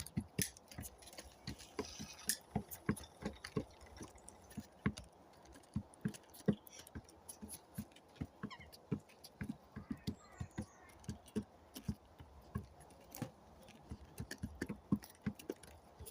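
Irregular soft taps and clicks, several a second, with no voices.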